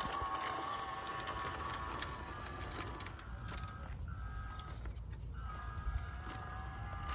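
Brushed 370 electric motor and metal single-speed gearbox of a 1:16-scale RC crawler whining, the pitch wavering and rising and falling with the throttle. The whine fades about three seconds in and comes back in short spells, over scattered small clicks.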